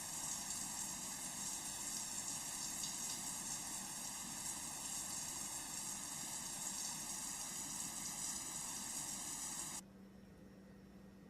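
Water running steadily from a tap or shower, a continuous hiss that stops suddenly near the end, leaving a faint low hum.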